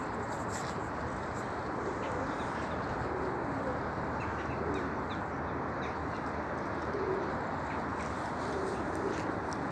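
Domestic pigeons, the Nikolaev breed, cooing softly several times, with small birds chirping faintly over a steady background hiss.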